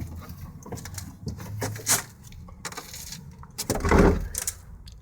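Footsteps and scattered small knocks and clicks of people moving about in a small room, with one heavy thump about four seconds in.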